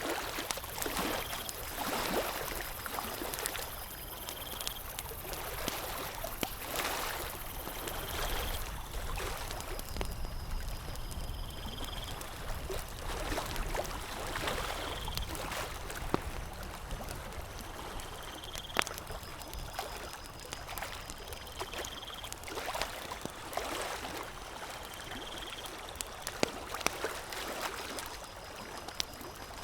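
Lake water lapping and trickling, with sharp campfire crackles now and then. A short high chirp repeats about every two seconds throughout.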